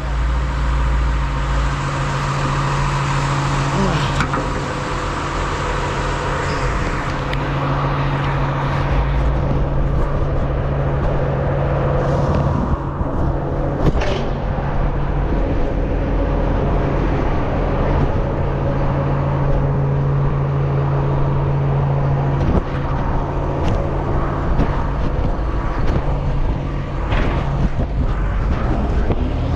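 A motor vehicle's engine running steadily with a constant low hum, and a few sharp knocks about halfway through.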